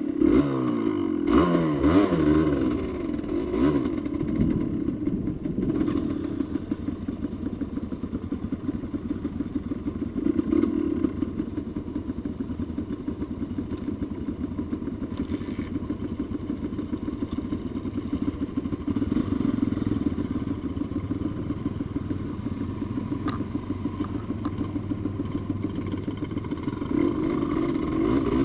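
Yamaha Lanza off-road motorcycle's two-stroke single-cylinder engine running while riding a rocky forest track, revving up and down in the first few seconds, then pulling steadily.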